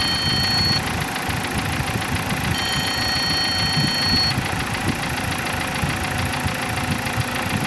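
Dodge Caliber engine idling with a loud rattling clatter from the timing chains, the sign of the timing-chain fault diagnosed here. A high steady electronic tone sounds briefly at the start and again about two and a half seconds in.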